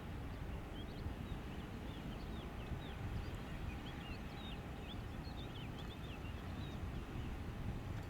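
Distant low rumble with a faint steady whine from a landing Cessna Citation Latitude's twin turbofan engines, with small birds chirping in many short quick calls over it.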